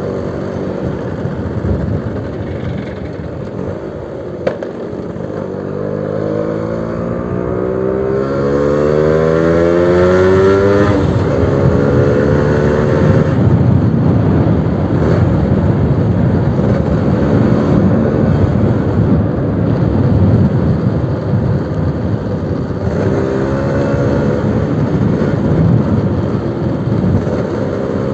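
Suzuki RC100 two-stroke motorcycle engine running through a new exhaust. About five seconds in, its pitch climbs steadily for some six seconds as it revs up, then it runs loud and rough.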